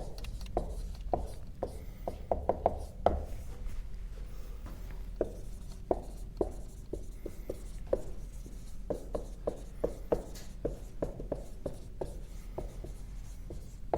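Writing by hand on a surface: a string of irregular taps and short scratches, about two or three a second.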